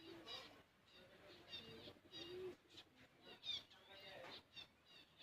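Faint, repeated short bird chirps, each falling in pitch, with a few lower calls among them.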